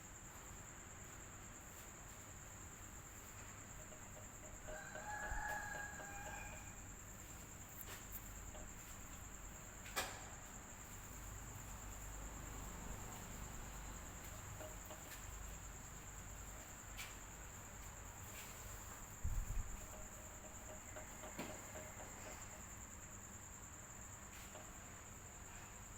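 Faint steady background noise with a constant high thin whine and a low hum. A short pitched call, like a distant bird, rises out of it about five seconds in, with a sharp click near ten seconds and a low thump near nineteen seconds.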